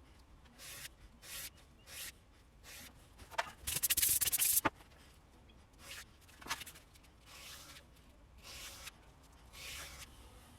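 Steel broadhead blade rubbed across coarse cloth-backed sandpaper: short scraping strokes about once a second, with a louder run of quick strokes about four seconds in. The bevel is being ground to strip its black oxide coating.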